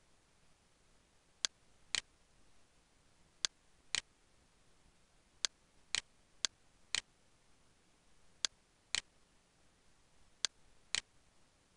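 Computer mouse button clicking: twelve sharp clicks in six pairs, the two clicks of each pair about half a second apart, with a new pair every one to two seconds.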